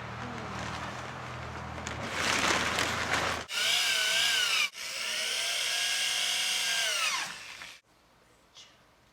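An electric drill runs twice, first for about a second and then for about three seconds, its motor whine spinning down at the end. A rustling, scraping noise comes before the drill.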